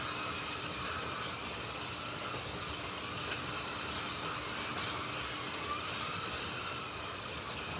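Slot.it 1:32 slot cars lapping a track: their small electric motors whine steadily, the pitch wavering as the cars speed up and slow through the corners.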